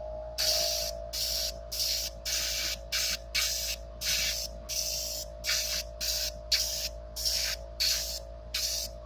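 Airbrush spraying in short bursts, about two a second, over the steady hum of its air compressor.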